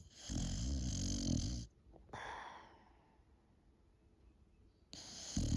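Boxer dog snoring in her sleep: a loud snore lasting about a second and a half, then a softer breath out that fades, a few seconds of quiet, and the next snore beginning near the end.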